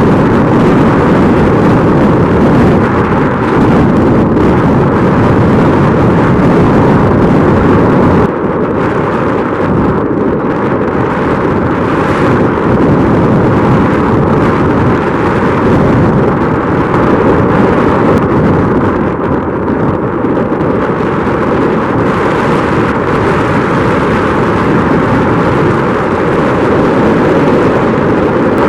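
Strong wind buffeting the microphone: a loud, continuous rumbling roar that rises and falls in gusts.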